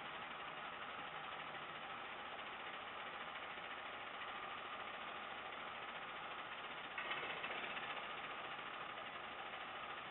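Garbage truck engine running steadily, a little louder from about seven seconds in.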